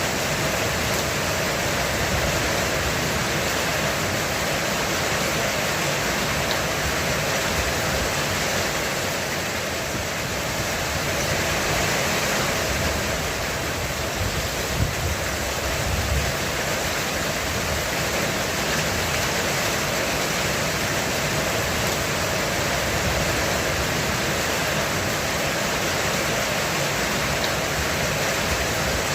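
Heavy rain pouring steadily on a roof, a dense even hiss of drops, with a brief low rumble about halfway through.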